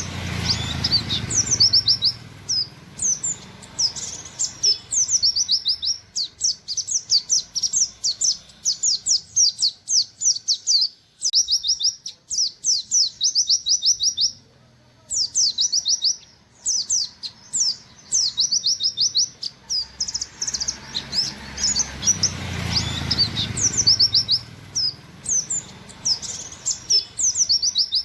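Pleci buxtoni (white-eye) singing its rapid-fire 'wit wit' song: fast runs of high, quick downward-sliding notes, several a second, in repeated bursts with brief pauses.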